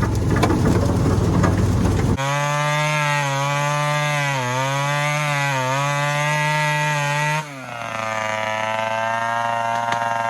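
Homelite XL-12 two-stroke chainsaw running at high revs and cutting through a small tree, its engine pitch dipping twice as the chain bites into the wood. A rough rumble comes first. About seven seconds in the sound changes abruptly to the saw running steadily at a slightly lower pitch.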